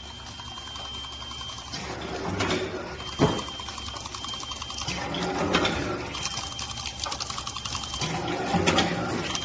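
Mini three-side sealing packaging machine running: a rapid mechanical clatter that swells about every three seconds as each packing cycle comes round, with a thin steady high whine that comes and goes and a sharp click about three seconds in.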